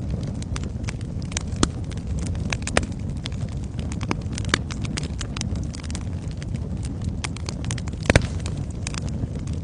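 Wood fire crackling in a fireplace: a steady low rumble of flame with irregular sharp pops and snaps, the loudest a quick double snap near the end.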